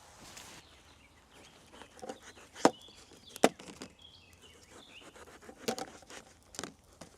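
Several sharp snaps and knocks at irregular intervals, the loudest about two and a half and three and a half seconds in, with a few short high chirps between them.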